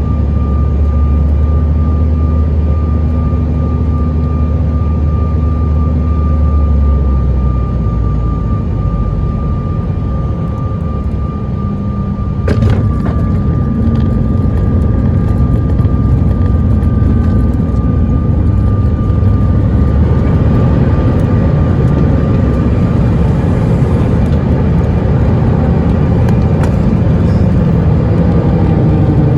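Cabin noise inside a CRJ900 regional jet: steady engine drone and rumble with a thin steady whine. A single sharp knock comes about halfway through, and rising engine tones build toward the end.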